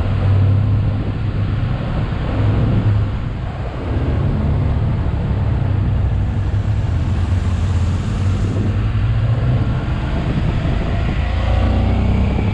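Motorcycle engine running steadily under way, with a broad rushing noise over it; the engine eases off briefly about three and a half seconds in, then pulls again.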